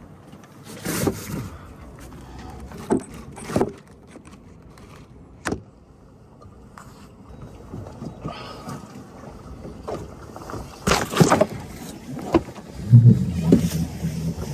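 Scattered knocks and thumps of someone climbing aboard a boat and moving about on deck, with a short low hum near the end.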